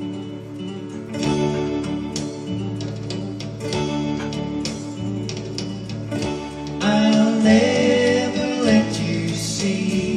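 Acoustic guitar strummed and picked in a slow intro, with a voice starting to sing about seven seconds in.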